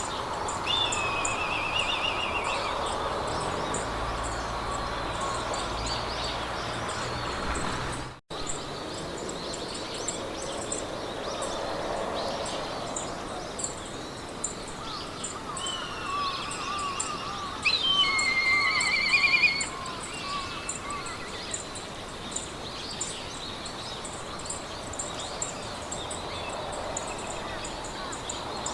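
Meadow ambience: wind through grass under songbirds singing short warbled trills, the loudest about two-thirds of the way through, over a fast, regular high-pitched ticking. The sound cuts out for an instant about 8 seconds in.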